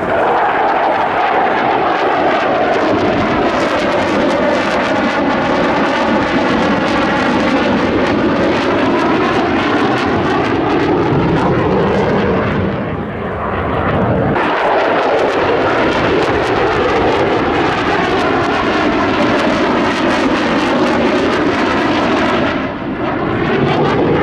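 RF-4 Phantom II jet with twin J79 turbojets, making loud passes over the field with a sweeping, shifting tone in its noise. The noise eases briefly about halfway through, then builds again for a second loud pass.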